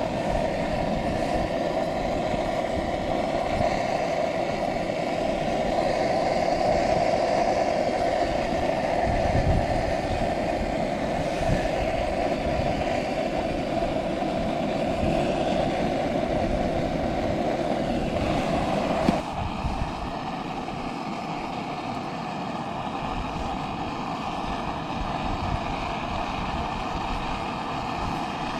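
Gas burner running with a steady rushing roar. About two-thirds of the way through, the sound abruptly drops a little and changes tone, then carries on steady.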